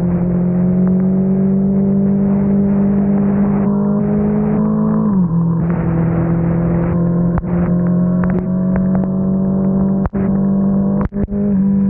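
Kawasaki Z900 inline-four engine running on the move, its pitch climbing slowly, dropping sharply about five seconds in, then climbing again, over a steady hiss of wind and rain. The sound cuts out briefly twice near the end.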